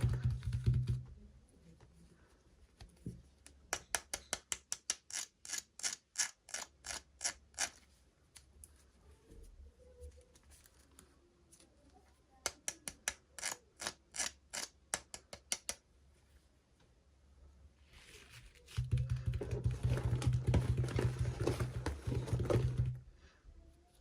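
Hands opening and handling toy packaging: two runs of rapid sharp clicks, several a second, then about four seconds of loud rustling and crinkling near the end.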